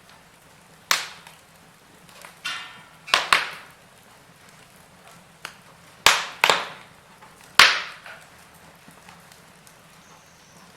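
Wood fire in a fireplace crackling, with sharp pops and snaps from the burning logs. The loudest come about a second in, in a pair just after three seconds, and in a cluster between six and eight seconds, over a faint steady hiss.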